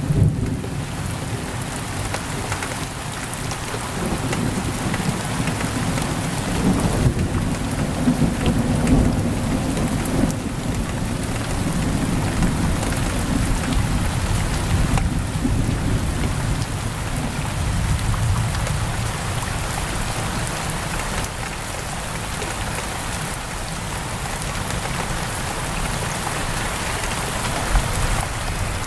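Heavy rain pouring steadily on a window, with a low rumble of thunder rolling through the first half and swelling again briefly later on.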